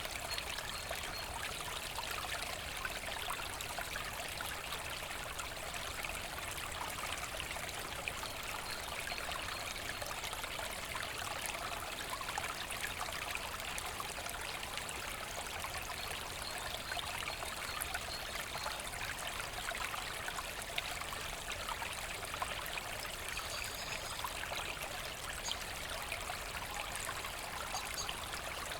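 Forest brook running steadily over stones, an even babbling and trickling of water.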